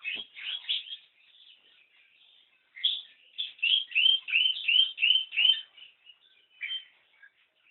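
Young nestling bird making repeated begging chirps while being hand-fed: a few chirps, a short pause, then a quick run of chirps about two a second.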